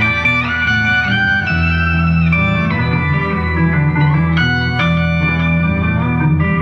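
Live band playing an instrumental passage led by electric guitar, with held notes that slide up and down in pitch over a steady bass.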